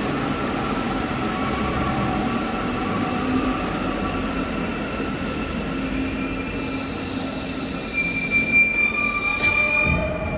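Santiago Metro NS 07 rubber-tyred train running, a steady hum with held whining tones. About eight seconds in a high-pitched wheel squeal with several shrill tones rises over it for a couple of seconds.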